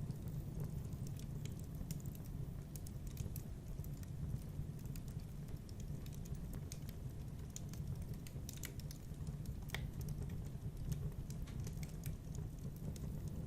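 Wood fire in a fireplace crackling: irregular sharp pops and snaps over a steady low rumble, with one louder snap near the end.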